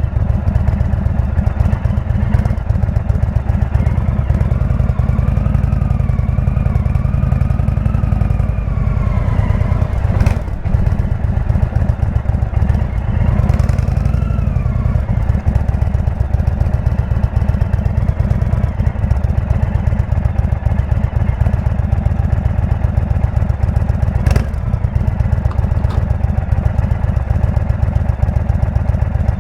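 Indian V-twin motorcycle with a Jekill&Hyde exhaust running on the road. Its engine note rises and falls over the first ten seconds, then holds steady. Two short knocks come through, about ten seconds in and near the end.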